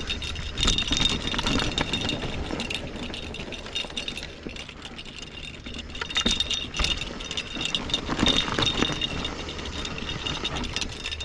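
Mountain bike rattling and clattering as it moves over rough, rocky ground, with clusters of sharp knocks every few seconds.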